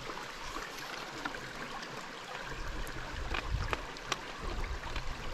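Creek water running steadily, with a few sharp clicks and a low rumble about three to four seconds in.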